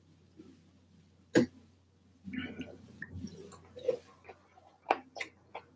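Mouth sounds of people eating: chewing and throat noises, with one sharp click about a second and a half in and a few smaller clicks near the end.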